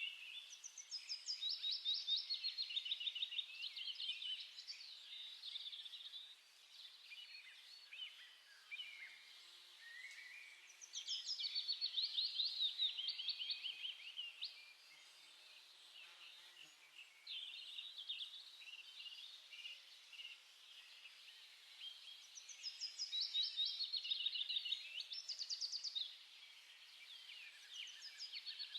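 Songbirds singing: three long phrases of rapid, high twittering notes, each lasting several seconds and coming about ten seconds apart, with quieter chirps between them.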